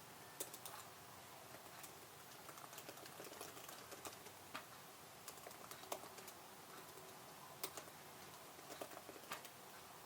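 Typing on a computer keyboard: quiet, irregular keystrokes in short bursts with pauses between them.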